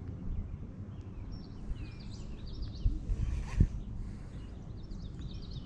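Small birds chirping and singing in quick high strokes over a steady low rumble, with two dull thumps about three seconds in.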